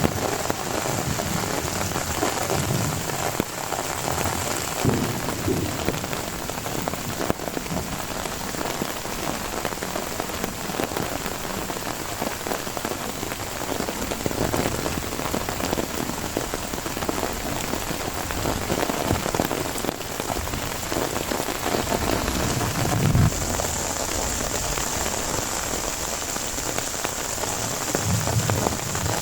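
Heavy rain falling steadily, with a brief low rumble about twenty-three seconds in and another near the end.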